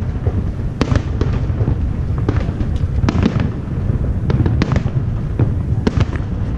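Aerial firework shells bursting in quick, irregular succession: about a dozen sharp bangs and cracks over a steady low rumble.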